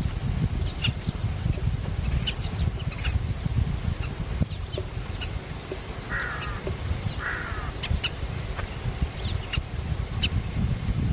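Wild birds calling: scattered short, high chirps throughout, and two harsh, raspy calls about six and seven seconds in. A steady low rumble runs underneath.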